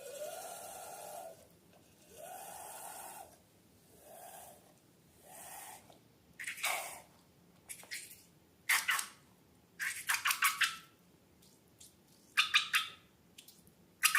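Slime and balloon being handled. The first half has four drawn-out, pitched squeaks; after that come clusters of short, crackly wet squishes.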